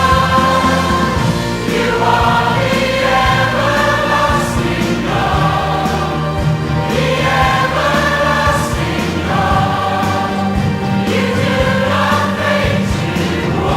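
Choir singing a Christian worship song.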